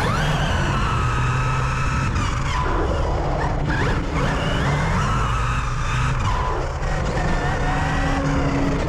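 Electric RC cars running hard: a high motor whine that rises and falls in pitch over a steady rumble.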